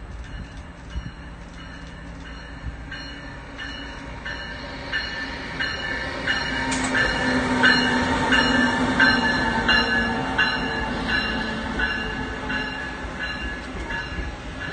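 Amtrak test train, a Siemens ACS-64 electric locomotive hauling a new Acela trainset and coaches, running past close by along the platform. The wheels click over the rail in an even rhythm with a high-pitched ringing. The noise swells as the locomotive passes about eight seconds in, with a low hum, then eases as the coaches go by.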